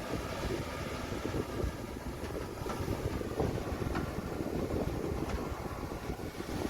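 Diesel engines of heavy earthmoving machinery (excavators and a bulldozer) running steadily, a continuous low rumble.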